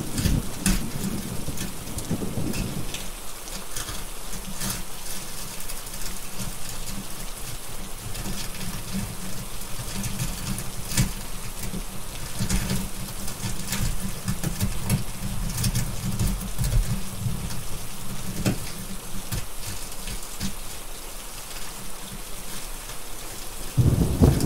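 Steady rain, with a rumble of thunder fading in the first few seconds and another starting near the end. Sharp crackles from a fireplace are scattered throughout.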